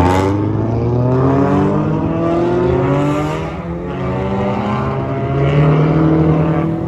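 Several car engines revving and accelerating at once, their overlapping notes climbing in pitch. The sound dips briefly about halfway through, then builds again near the end.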